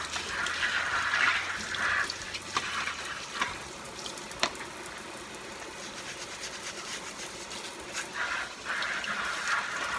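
Kitchen tap left running into a sink, louder in the first two seconds and again near the end, with a few sharp knocks in between.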